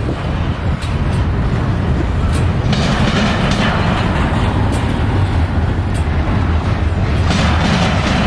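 Freight train rolling slowly past: a steady low rumble with scattered sharp clicks and clanks from the wheels.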